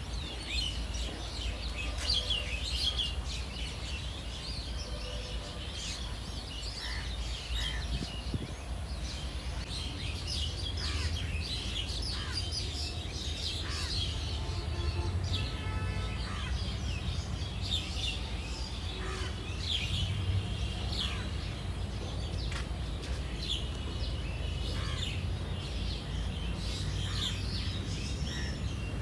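Many small birds chirping and twittering over a steady low rumble.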